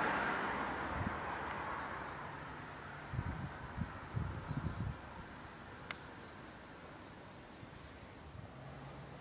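A small bird calling a short, high-pitched phrase four times, about every second and a half. A rushing noise fades away over the first two seconds, and a few low thumps come in the middle.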